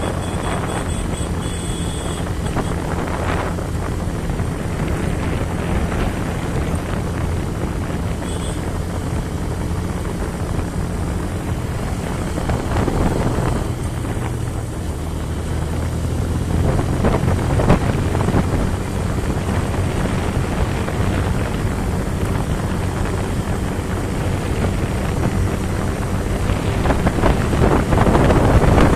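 Motorcycle engine running steadily while riding, with wind buffeting the microphone in surges that grow stronger near the end.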